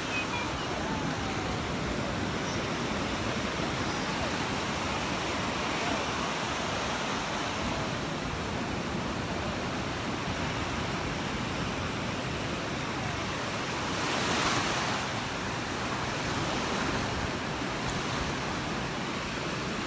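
Gulf of Mexico surf washing onto the beach as a steady rush, with one wave breaking louder about fourteen seconds in.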